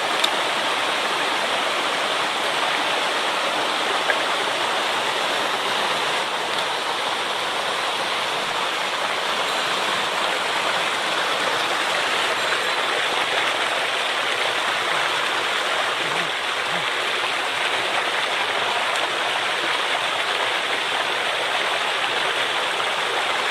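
Swollen mountain stream rushing over rocks in high water: a steady, even roar of water that doesn't let up.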